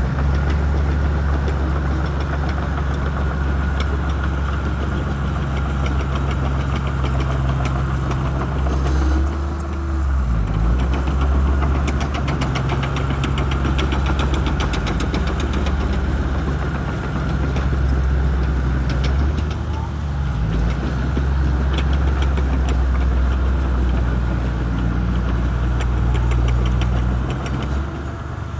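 Shantui bulldozer's diesel engine running steadily under load, easing briefly about ten and again about twenty seconds in. A fast run of even ticking rides over the engine through the middle stretch.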